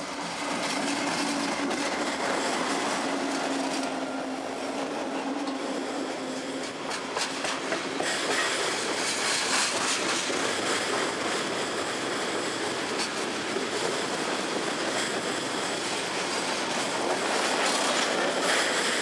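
Diesel freight train passing close by. The locomotives' engines drone steadily for the first few seconds. Then a string of loaded tank cars rolls past with a continuous wheel-on-rail rumble and repeated wheel clacks.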